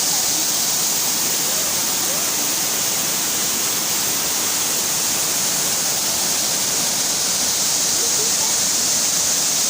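Small waterfall with water rushing and splashing in a steady roar that holds even throughout.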